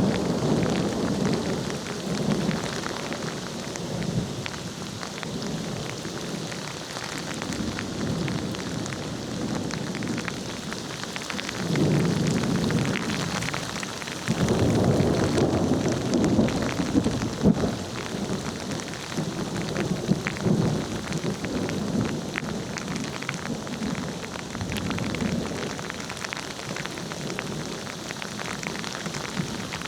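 Steady rain falling with thunder rumbling underneath; the rumble swells louder twice near the middle.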